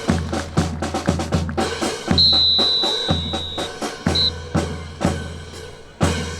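Marching drum cadence of bass drum and snare beating a steady rhythm. About two seconds in, a long high whistle blast sounds, then a short one.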